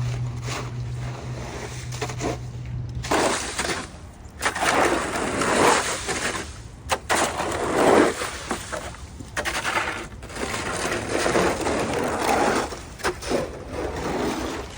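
Snow shovel scraping and crunching through wet snow on pavement in repeated strokes of a second or two. A steady engine hum in the first few seconds stops about three seconds in.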